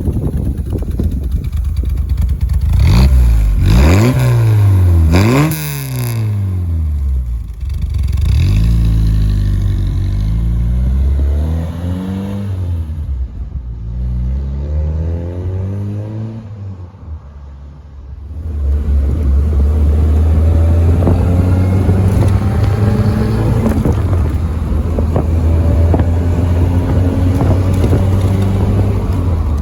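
Fiat 124 Spider 2000's twin-cam four-cylinder engine under way. It revs up sharply twice in the first several seconds, winds down over the next several, then runs at a steady cruising pitch through the second half.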